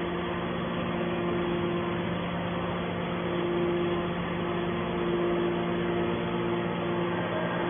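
Hydraulic scrap-metal baler's pump and motor running with a steady hum; a higher tone in the hum drops out and comes back a few times.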